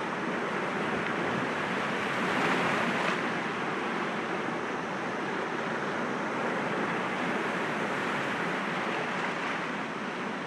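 Sea waves breaking gently against rocks: a steady rushing wash of surf that swells louder about two and a half seconds in, then settles back.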